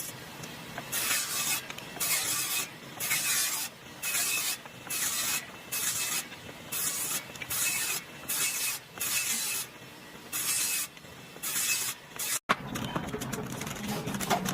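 Short bursts of hissing, about one a second, each around half a second long. Near the end a sharp click cuts to a steadier, lower noise.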